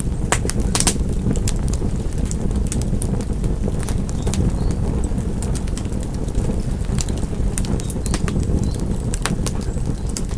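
Wood fire crackling: irregular sharp pops and snaps over a steady low rumble of the burning fire, with the pops clustered thickest near the start and again near the end.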